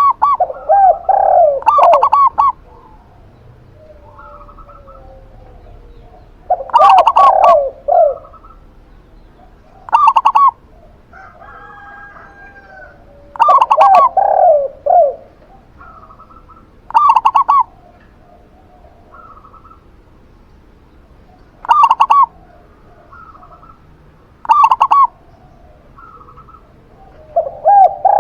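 Zebra dove and spotted dove cooing in turn: loud short coo phrases every few seconds, some higher and some lower in pitch, with fainter cooing in between.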